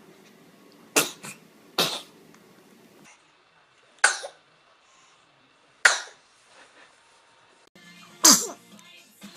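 Babies sneezing: five short, sharp sneezes a second or two apart, the last with a little falling squeak of voice.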